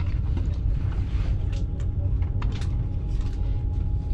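Steady low rumble of a moving passenger train, heard from inside the carriage, with a faint steady hum and scattered light clicks and rattles.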